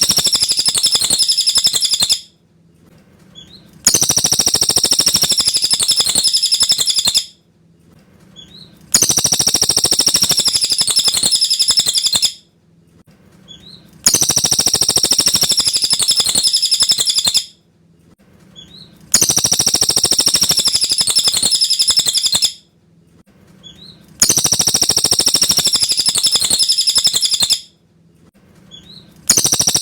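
Cililin bird singing: a loud, high, fast trilling phrase about three seconds long, repeated about every five seconds with short pauses between, each phrase the same as the last.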